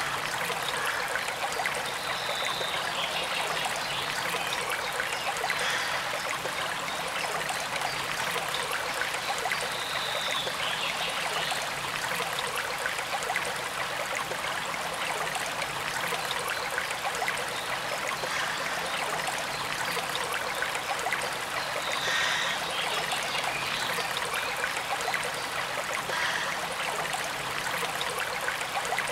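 Forest stream running and trickling steadily over rocks, with a few brief high chirps, likely birds, coming through now and then.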